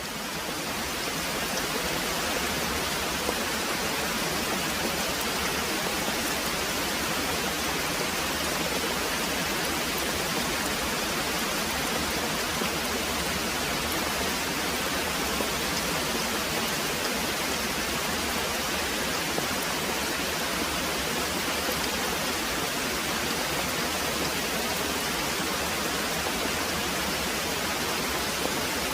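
Very heavy rain pouring steadily, a dense even hiss with faint scattered drop ticks, fading up over the first second or two.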